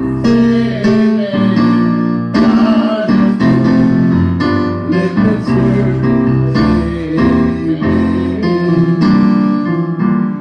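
Live gospel church band music led by keyboard chords over a steady bass line, the chords changing every second or so.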